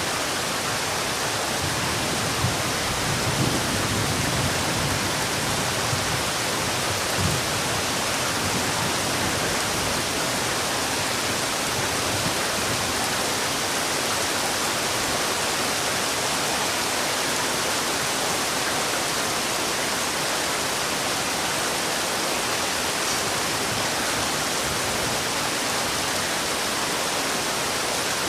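Heavy rain falling steadily as an even, unbroken hiss, with a few soft low thuds in the first several seconds.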